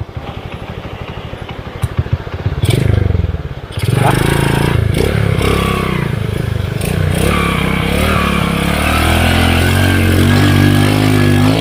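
Underbone motorcycle's single-cylinder engine idling with an even beat, then revving as the bike rides into a river crossing. From about four seconds in, rushing, splashing water joins the engine, and the engine's pitch climbs near the end.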